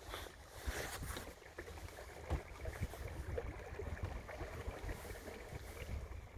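Water swishing and lapping against the hull of a small sailboat under way, with a low wind rumble on the microphone and small scattered splashes and ticks.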